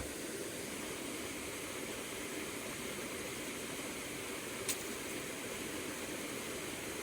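River water flowing with a steady rushing noise, with a single sharp click about two-thirds of the way through.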